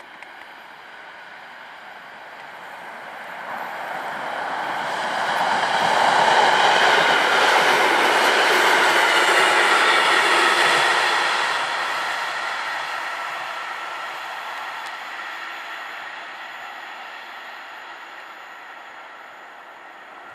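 EN57AL electric multiple unit passing by: its running noise swells over the first few seconds, is loudest for about five seconds in the middle as the cars go past, then slowly fades away.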